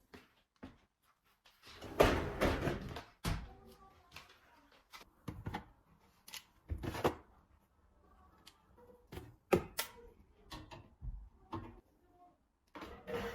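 Dishwasher being handled for cleaning: irregular knocks and clatters, with a longer rattling scrape about two seconds in, as of a rack being slid out.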